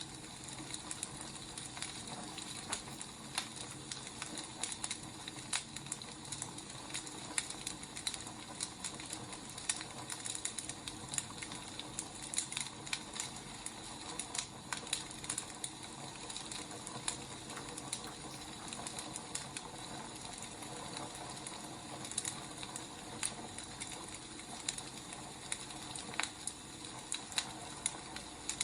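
Wood fire crackling: a steady hiss with many irregular sharp pops and snaps.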